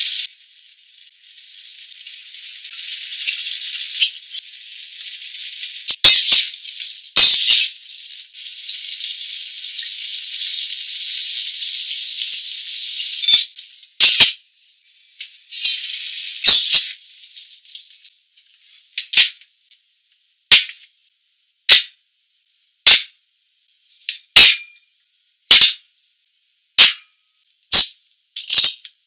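Crayfish sizzling in an oiled wok, with a few sharp knocks of the utensil and lid against the pan. In the second half this gives way to a run of short, evenly spaced swishes, about one a second.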